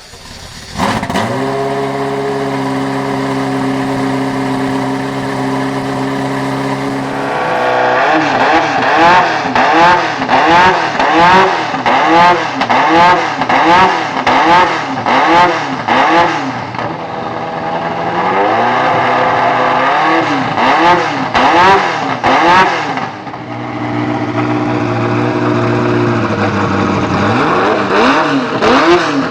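Ferrari F40 LM's twin-turbo 2.9-litre V8 starts about a second in and idles steadily. From about 7 seconds in it is blipped repeatedly, about one rev a second, settles back to idle for a few seconds, then is revved again near the end.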